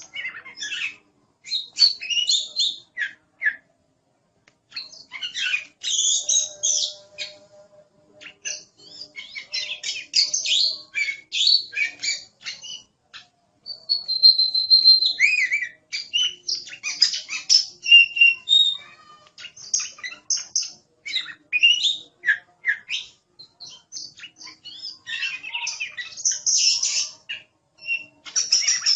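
Oriental magpie-robin (kacer) singing a continuous, varied song of quick chirps and whistles in phrases broken by short pauses, with one longer held whistle about halfway through.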